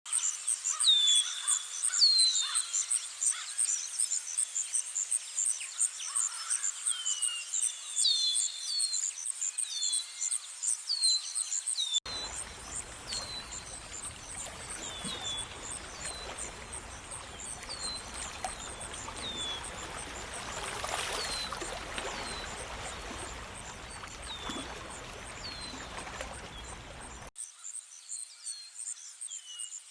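Nature ambience of birds and insects: a steady, fast-pulsing high insect chirr under many short, falling bird chirps. About twelve seconds in, a wider rushing noise layer cuts in, swells in the middle and cuts out again near the end.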